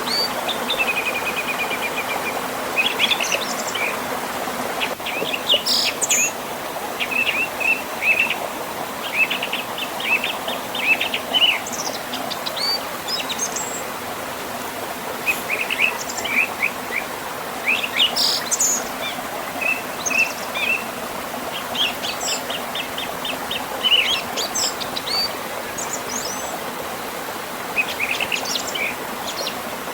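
Several small birds singing and chirping in short bursts and trills over the steady rush of flowing river water.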